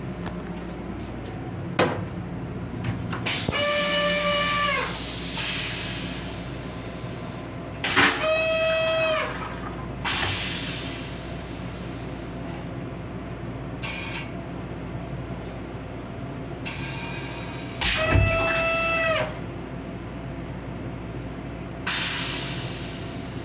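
Steady hum of a Metro-North M7 railcar, with a held high tone sounding three times, each about a second long and dropping briefly in pitch at its end, and several short hissing bursts in between.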